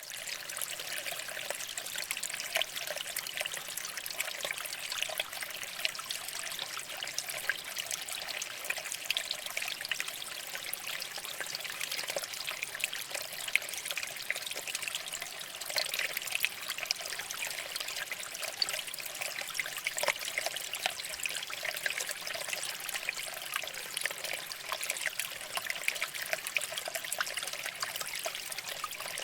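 Water flowing and trickling over rocks: a steady rush full of small, constant splashes.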